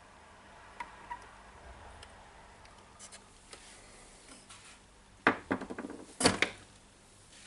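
Small hard clicks, then two short bursts of clattering about five and six seconds in: small screws and a screwdriver being handled against the plastic casing as a switch is screwed back into a power-tool site radio.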